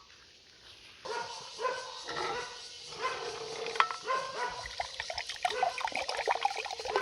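Animal calls, several short and overlapping, starting suddenly about a second in and going on busily with many clicks mixed in.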